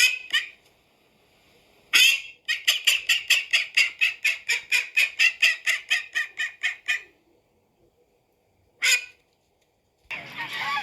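Domestic waterfowl calling: a single call, then a loud call running into a rapid series of about four to five calls a second that lasts some five seconds, then one more call. Near the end a denser, louder chorus of calls begins.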